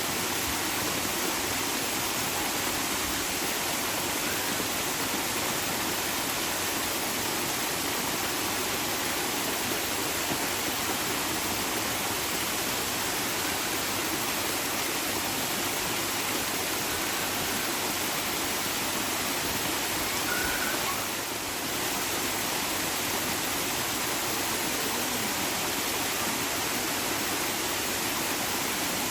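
Running water rushing steadily: an even, unbroken hiss with a brief dip in level about two-thirds of the way through.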